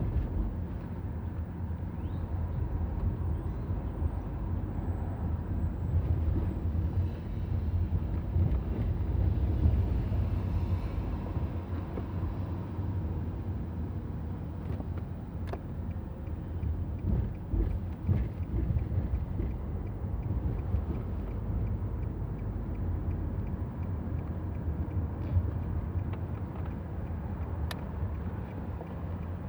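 Steady low rumble of wind and road noise on a moving camera during a ride through city streets, with a couple of faint clicks.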